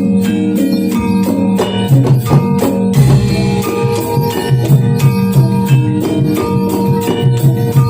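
Javanese gamelan music accompanying a jathilan horse dance: sustained struck metal tones with a repeating low drum pattern that comes in about two seconds in.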